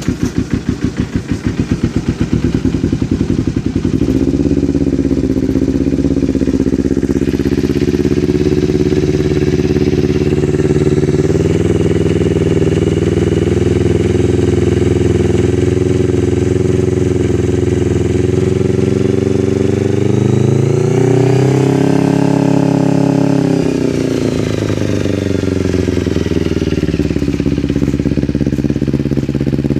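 Kawasaki Ninja 250's parallel-twin engine with a Leo Vince aftermarket exhaust, cold-started after winter storage. It runs unevenly for the first few seconds, then settles into a steady idle. About two-thirds of the way through it is revved once, the pitch rising and then falling back.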